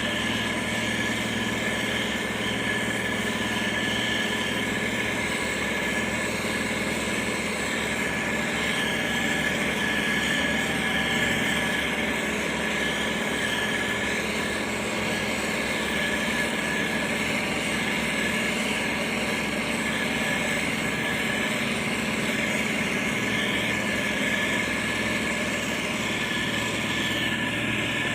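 Diesel engine of heavy road-construction machinery, a motor grader or road roller, running steadily at an even pitch.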